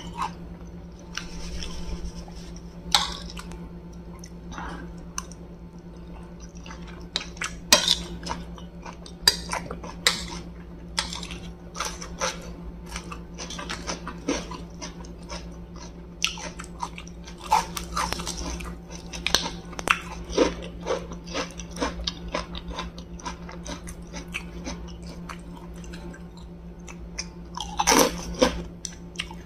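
A person chewing and crunching crisp food close to the microphone: fried dumplings, cucumber and prawn crackers. Many short crunches and clicks come throughout over a steady low hum, with a louder burst of crunching near the end, and now and then a spoon clinks on the plate.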